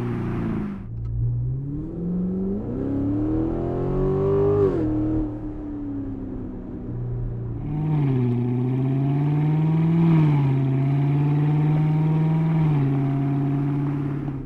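C7 Corvette V8 running through an AWE Track Edition axle-back exhaust, a straight-through system with no mufflers or resonators, revving. The pitch climbs to a peak and drops away about five seconds in, settles briefly, then rises again and is held for several seconds before stepping back down near the end.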